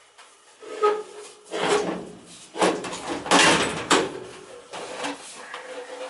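Knocks and scraping of metal furnace blower parts being handled and worked on. There are several irregular clunks over a few seconds, the loudest about three and a half seconds in; the blower is not running.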